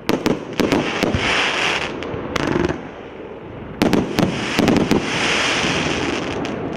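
Consumer firework cake of 1.2–1.5 inch tubes firing rapid volleys of shots, each volley followed by the crackling hiss of the bursting shells. One volley comes at the start and a second about four seconds in.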